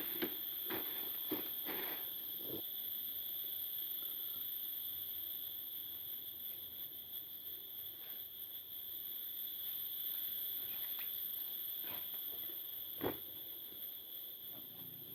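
Forest insects buzzing steadily at two high pitches, with a few sharp knocks in the first couple of seconds and one more near the end.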